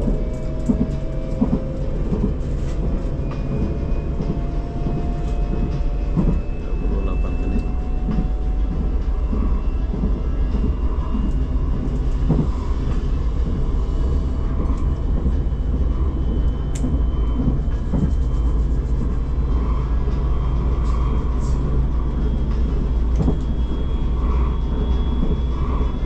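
Electric airport-link train running along the line: a steady rumble with a faint whine that slowly rises in pitch, and scattered clicks from the wheels and track.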